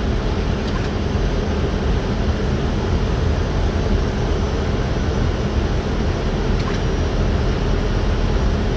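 Steady flight-deck noise of an Airbus A320 on short final approach: a constant rushing of airflow and engine noise, heaviest at the low end.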